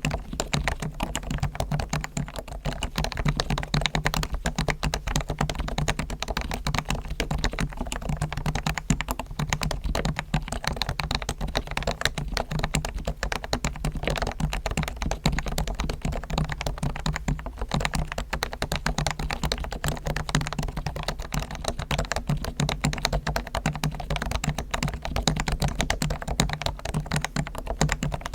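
Continuous fast typing on a Topre Realforce R1 electrostatic capacitive keyboard. Its sliders, springs and stabilizers are lubricated with Krytox and it is dampened with foam, giving a dense run of soft key strokes.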